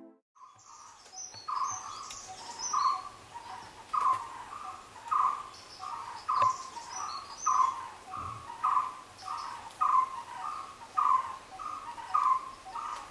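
A bird calling with one short note repeated steadily about once a second, with fainter, higher chirps of other birds.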